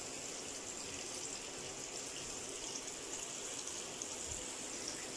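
Floured eggplant slices frying in hot oil in a pan, a steady sizzle.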